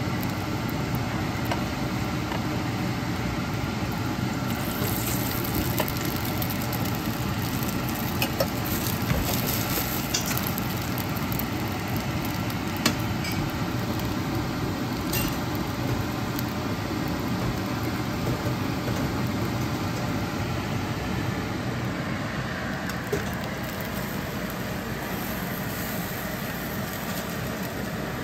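Bánh xèo crepe frying in a hot nonstick pan: a steady sizzle, with a few light clicks of a metal spatula against the pan.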